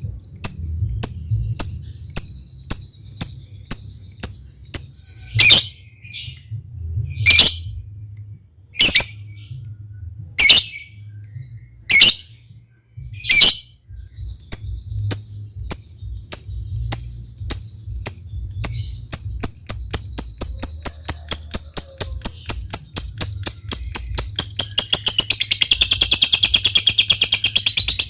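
Lovebird calling in short, high ticks, with louder calls about every second and a half. The ticks then speed up and run together near the end into a rapid continuous trill: the ticking-then-trilling song (ngetik, then ngekek) of a lovebird in full song. A low hum runs underneath.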